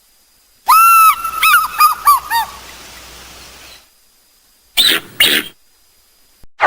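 A farm bird calling: one held note, then a quick run of short arched notes. About two seconds later come two short harsh squawks.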